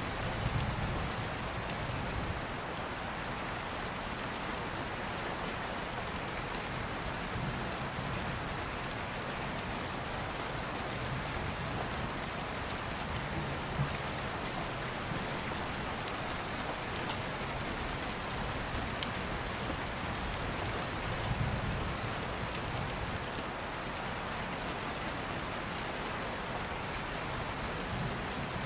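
Steady rain pattering, heard as from indoors, with soft low rumbles of distant thunder swelling up a few times.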